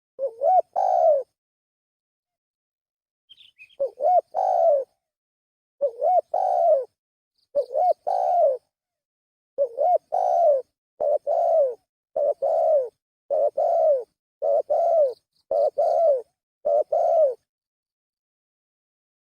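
Spotted dove (tekukur) cooing, a lure call for attracting doves: short coo phrases repeated with gaps, coming quicker and more evenly from about ten seconds in, then stopping near the end.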